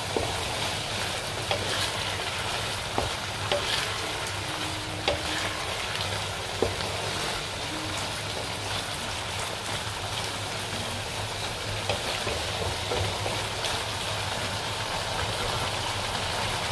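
Diced chicken sizzling and bubbling in a sauce in a nonstick pan, a steady frying hiss. A wooden spatula stirs it now and then, with a few short clicks and scrapes against the pan.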